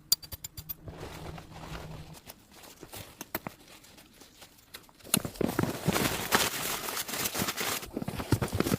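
Footsteps crunching through snow: a few scattered crunches at first, then a louder, denser run of crunching from about five seconds in.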